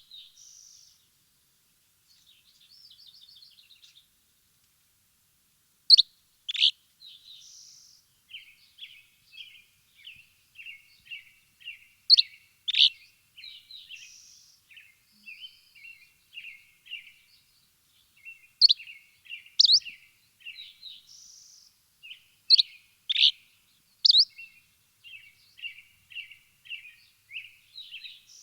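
Birds chirping: clusters of loud, sharp chirps every few seconds, with runs of softer, quick twittering notes between them.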